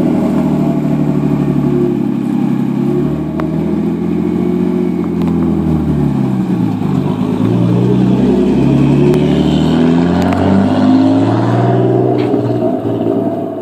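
Turbocharged RB20 inline-six engine swapped into a Nissan 240SX, running steadily and then revving up and down as the car pulls away and drives off, its pitch dipping and climbing several times through the second half.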